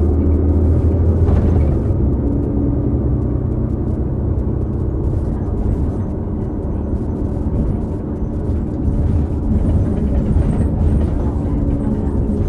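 Interior of a New Flyer XD40 diesel bus under way: the Cummins L9 engine and Allison B3400xFE automatic transmission running with a steady low drone and tonal whine. The uploader calls the transmission bearing noise very odd, an issue shared by several buses of the same series. The sound eases a little in the middle and builds again near the end.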